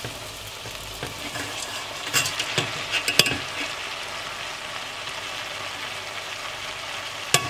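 Diced vegetables sizzling in a stainless steel pot as soaked, drained lentils are tipped in from a mesh strainer; a steady frying hiss with a few sharp clicks about two to three seconds in and once more near the end.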